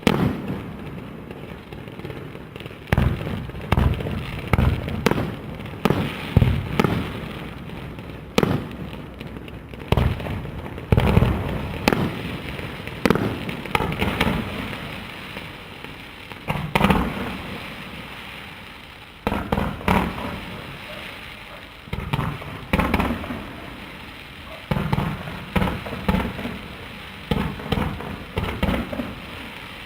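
Aerial fireworks display: shells bursting one after another in irregular volleys, each bang trailing off, with crackling in between.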